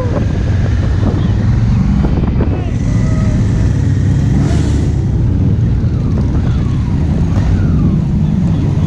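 A motor vehicle's engine running steadily with a continuous low rumble while under way, with wind on the microphone.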